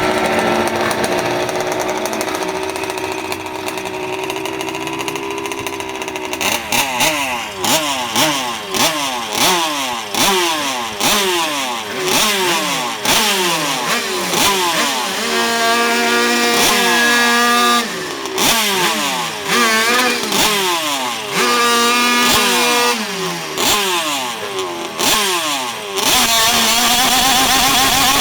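Modified air-cooled 50cc Kreidler two-stroke racing engine, loud and high-revving. It holds steady for the first few seconds, then is revved again and again, the pitch climbing and dropping many times, with a few stretches held at a steady high pitch.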